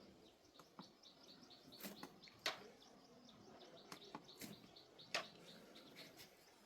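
Faint bird chirping in the background, with a few sharp clicks or taps scattered through, the loudest about two and a half seconds and five seconds in.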